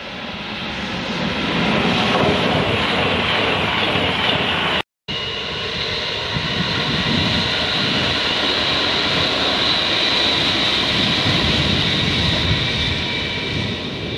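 A Virgin Voyager diesel multiple unit approaches and passes at speed, its noise swelling to a loud rush. After a sudden cut about five seconds in, a London Midland Class 350 electric multiple unit runs close past with a steady high whine over the rumble of its wheels.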